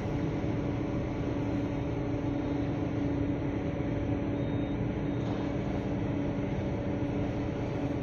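Steady drone of a ship's engine: a constant low hum over a wide rushing noise, unchanging throughout.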